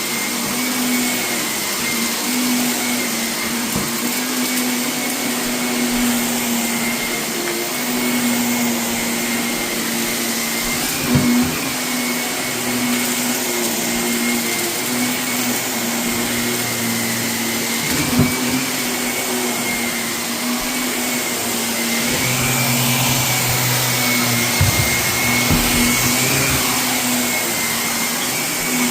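Vacuum cleaner running steadily over carpet with a steady high whine, picking up renovation debris, with a few sharp crunches and clatters as hard bits are sucked in.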